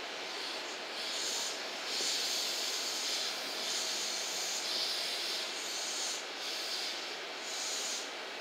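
A stationary JR West 227 series electric train idles with a steady hiss. Louder high-pitched hissing surges come and go about once a second.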